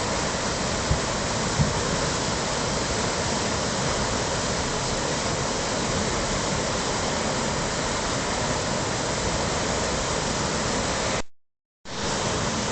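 Rushing whitewater of a mountain creek, a steady loud wash with two brief knocks about a second in; the sound drops out completely for about half a second near the end.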